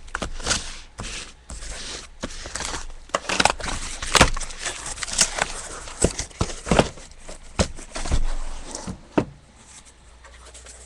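Irregular rustling, scraping and knocking of a sealed cardboard case being opened and its boxes of trading cards handled and set out.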